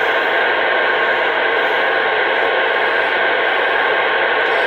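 CB radio static: a steady, even hiss over the channel through the radio's speaker, with no voice on it.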